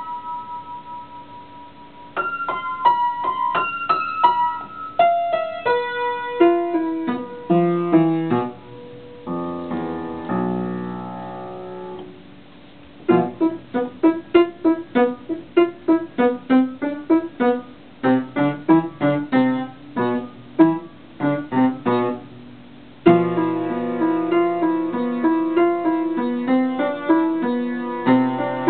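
Solo piano playing an improvised piece: single notes and chords ringing out, a held chord, then a run of quick repeated notes, with a short pause a little after the middle before fuller playing resumes.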